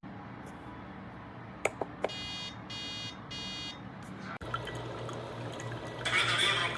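Ninja DualBrew coffee maker humming, with a few button clicks followed by three short high beeps, the alert that goes with its 'add water' warning although the tank is full. Near the end there is a short burst of hissing, water-like noise over the machine's hum.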